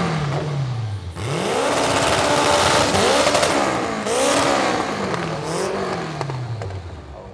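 Drag-racing car accelerating hard down the strip. The engine note climbs and drops back at several gear changes, then fades toward the end.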